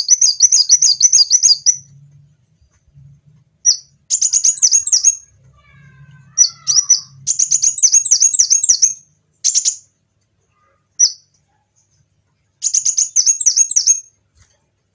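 Kolibri wulung sunbird singing: high, fast trilled phrases of rapidly repeated notes, given in about six bursts of under a second to two seconds each, separated by short pauses.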